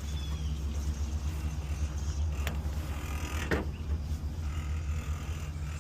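Massey Ferguson tractor engine idling with a steady low rumble, with two sharp creaks about two and a half and three and a half seconds in.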